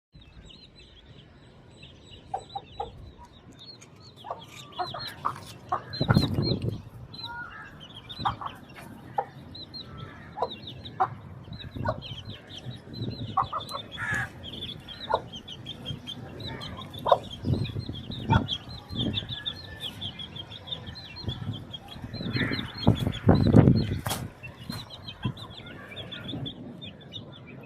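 Aseel gamecocks clucking, with bursts of wing flapping or scuffling, loudest about six seconds in and again around twenty-three seconds. A steady high chirping runs underneath throughout.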